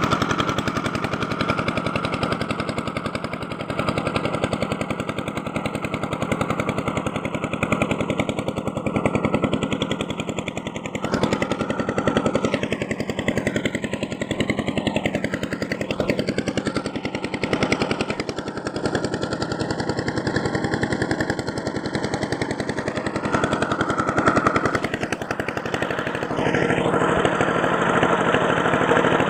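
A small motor running steadily with a fast, dense rattling pulse, its tone shifting several times as it works.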